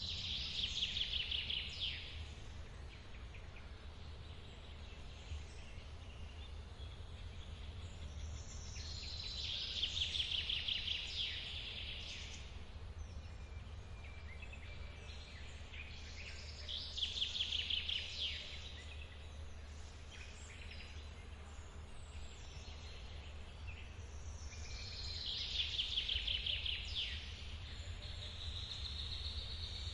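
A songbird repeating a fast trilled song about every eight seconds, four times, over the steady low rush of a forest waterfall, with fainter bird calls in between.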